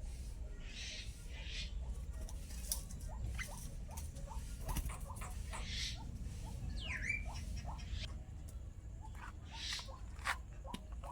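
A pet starling making a few short, squeaky chirps and one brief sweeping call about seven seconds in, amid light scattered taps and clicks.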